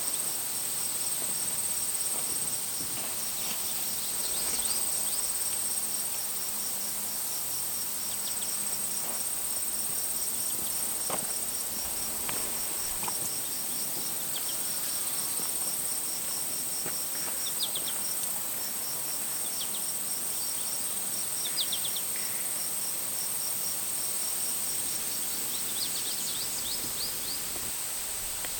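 Outdoor nature ambience: a steady high-pitched insect-like drone with a rapid pulsing chirp just below it, a few short chirping calls scattered through, and a faint even hiss.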